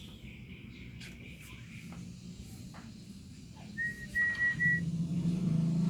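A short, steady, high whistle about a second long, broken into two pieces, around four seconds in. A low steady hum comes in near the end.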